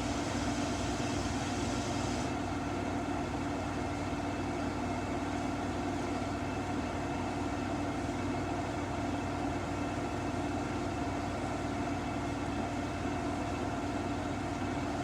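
Samsung washing machine in its spin cycle, its motor and drum running with a steady hum while spinning a single jacket, an undersized load.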